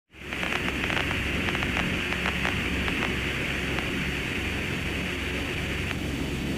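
Steady radio static: a hiss over a low hum, with scattered clicks and crackles in the first few seconds, like the open channel of Apollo mission radio audio.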